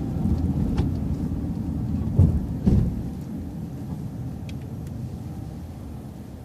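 City bus running with a low engine and road rumble, with two short clunks a little over two seconds in. It then grows gradually quieter, as when the bus slows for the stop sign.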